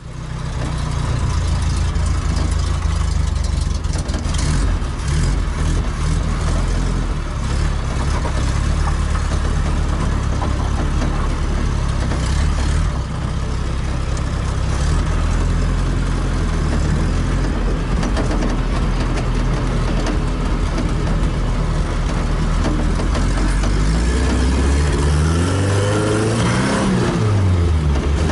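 Chevrolet Chevette's four-cylinder engine running steadily while driving, heard from inside the cabin with road noise. Near the end the revs climb and then drop away.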